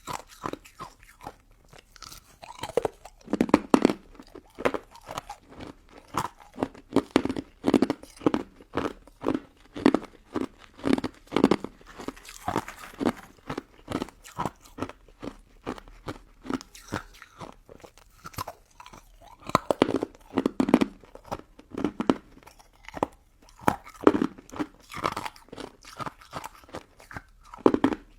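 Close-miked chewing and biting of a crunchy pink crystal snow ice dessert: a steady run of crisp crunches, a couple each second, with brief quieter stretches between mouthfuls.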